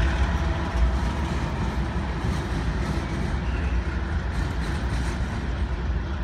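Train passing with a steady low rumble, slowly growing quieter.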